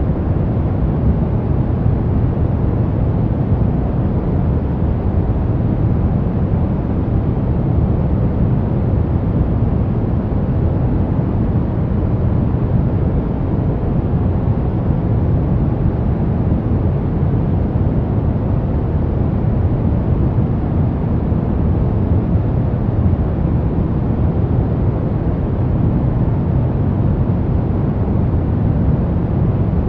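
Steady pink noise: an even, unchanging rushing hiss, heavier in the low end.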